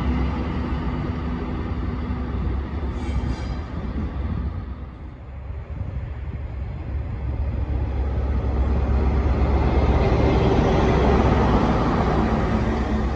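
GB Railfreight class 73 locomotives running past and fading away. Then a class 43 HST power car on a test train approaches and runs past close by, its engine and wheels getting louder, loudest near the end.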